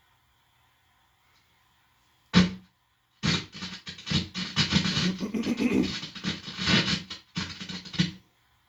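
Guitar amplifier crackling and buzzing, with a low hum underneath, as the tip of a guitar cable is pressed against a person's skin. After a short burst, the crackle runs in a choppy, irregular stream for about five seconds, which the owner takes for incoming signals, or "communication".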